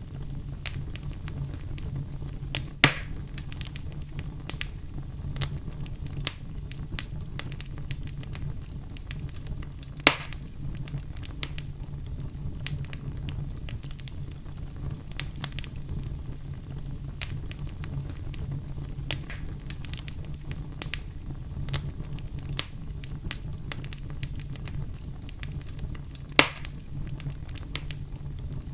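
Wood fire crackling in a fireplace: a steady run of small sharp crackles over a low rumble, with three louder pops, about 3 seconds in, about 10 seconds in and near the end.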